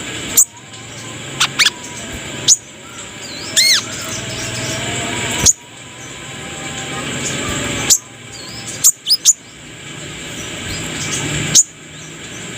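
Brown-throated sunbird (kolibri kelapa) calling: loud, sharp, short chips every second or two, some in quick doubled or tripled notes, over a steady hiss.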